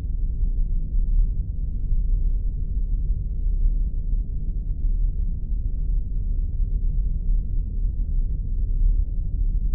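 Spaceship sound effect: a steady, deep rumbling hum.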